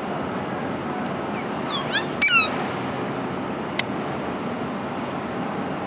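A bird calls about two seconds in: a quick run of sharp chirps sliding in pitch, the loudest sound here, over a steady background rumble of noise. A single sharp click follows near four seconds in.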